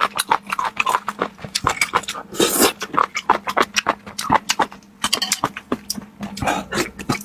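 Close-miked chewing of raw octopus: a rapid, irregular run of wet smacks and clicks from the mouth.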